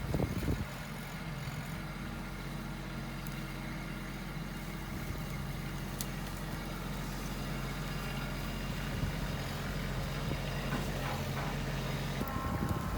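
Tractor engine running steadily, its note shifting slightly near the end.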